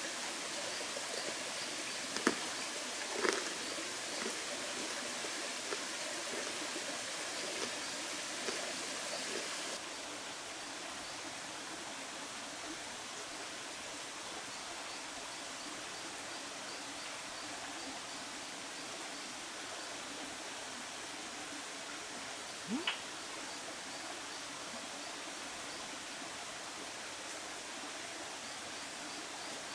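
Steady outdoor background hiss with a few sharp clicks, two in the first few seconds and one about 23 seconds in; the background turns slightly quieter about ten seconds in.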